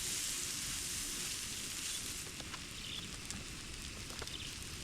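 Butter, fries, onions and hot dogs sizzling on a hot Blackstone flat-top griddle, with scattered small pops and crackles. The sizzle eases a little after about two seconds.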